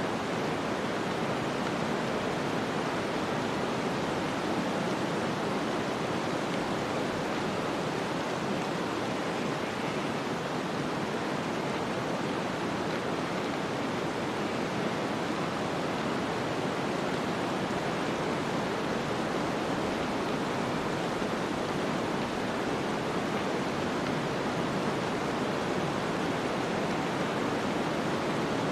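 Snowstorm ambience: a steady, even rushing hiss of wind and blowing snow, with no separate sounds standing out.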